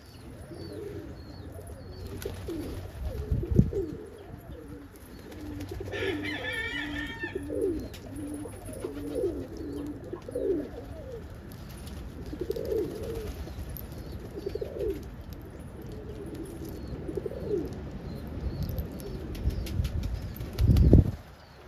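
Domestic pigeons cooing over and over in short low calls. A brief higher chirping comes about six seconds in, and loud low thumps come about three and a half seconds in and again near the end.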